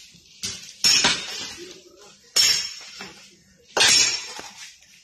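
Heavy hammer blows on steel at the rail weld: three sharp metallic clanks about a second and a half apart, each ringing briefly, with a lighter knock before the first.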